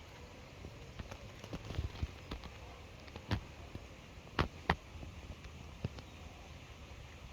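A handful of short, sharp taps scattered over a steady low background rumble, the loudest a close pair about halfway through.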